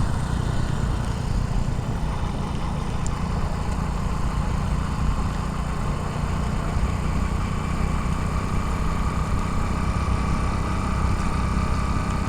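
Motorcycle engine running steadily while riding at a constant speed, with steady road and air noise.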